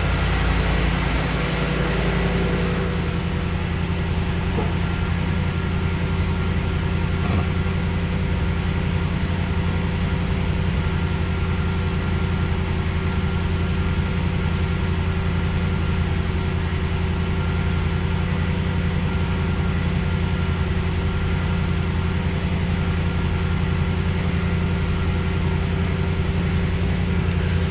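1979 Oldsmobile Hurst W-30's V8 engine idling steadily while warming up from a cold start, dropping slightly about three seconds in.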